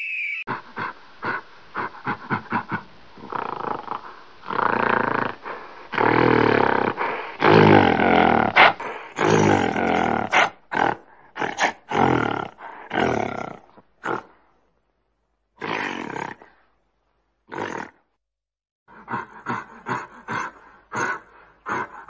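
A large animal roaring and grunting. Long, loud roars build to a peak in the first half, then break into shorter clipped grunts. After a pause broken by a couple of single calls, a fast run of short grunts follows near the end.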